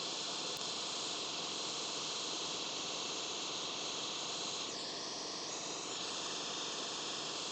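Hot air rework station blowing a steady hiss of air while reflowing a BGA chip onto the board. The tone shifts briefly about five seconds in.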